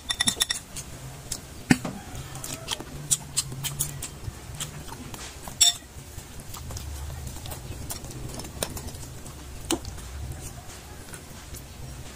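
Close-up mukbang eating sounds: chewing and lip-smacking, with many sharp, irregular mouth clicks over a steady low hum, and a louder click a little over five seconds in.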